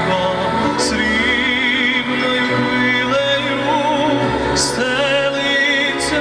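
Live vocal music: operatic-style singing, long held notes with wide vibrato over a steady accompaniment.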